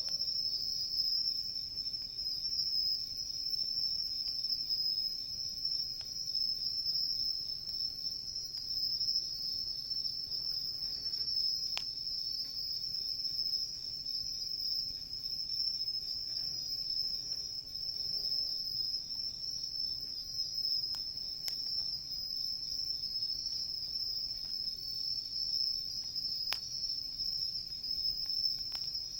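Crickets trilling steadily in a high pitch, with a few sharp crackles from a wood campfire.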